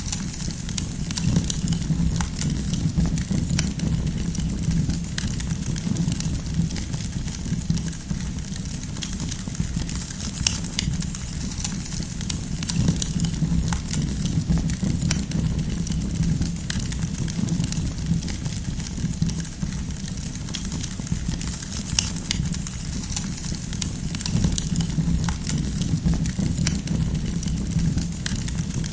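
Wood campfire burning, with frequent irregular crackles and pops of the firewood over a steady low rumble.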